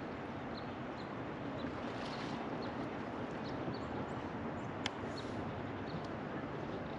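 River water flowing steadily around a floating raft, with faint high chirps now and then and a single sharp click about five seconds in.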